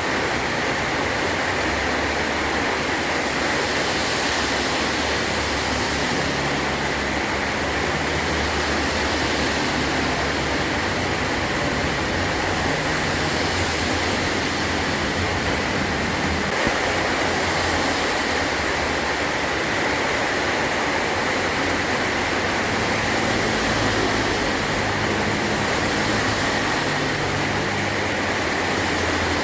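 Heavy rain falling steadily on a metal roof, a dense even hiss with an uneven low rumble underneath.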